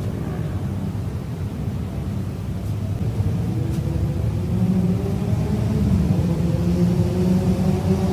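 Low rumble of a motor vehicle engine, its tone slowly rising in pitch and growing a little louder over the second half.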